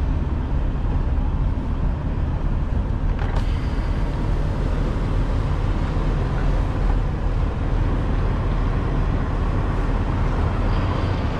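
Diesel engine of a 2021 Freightliner Cascadia semi truck running steadily, heard from inside the cab as a low, even rumble, with a faint click about three seconds in.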